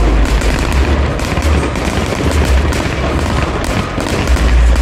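Fireworks display: a rapid, near-continuous volley of bangs and crackling bursts with deep booms.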